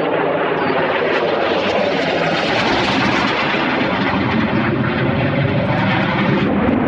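Military jet aircraft flying over: loud, steady rushing engine noise. It grows brighter two to three seconds in and then eases, and its hiss drops away abruptly near the end.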